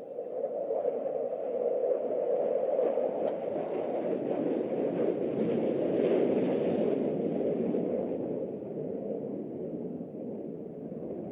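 Jet aircraft engine roar, a steady rumble that swells to its loudest and harshest about six seconds in as the jets pass, then eases.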